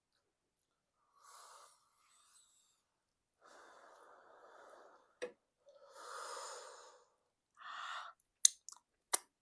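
Close-miked breath blown out in four soft puffs, typical of cooling a mouthful of hot egusi soup and semolina, followed by a few sharp wet mouth clicks near the end.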